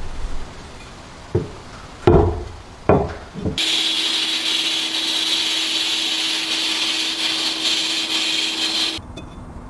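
Four knocks, then a power tool runs steadily for about five seconds, a high abrasive hiss over one steady low hum, and stops abruptly near the end.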